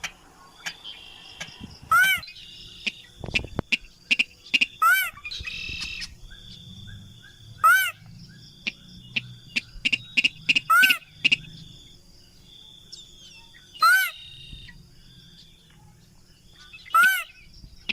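Lure recording of a rail (sintar / mandar padi) calling: a short, sharp call that rises then falls in pitch, repeated about every three seconds, six times. Scattered ticks and a faint high steady trill lie between the calls.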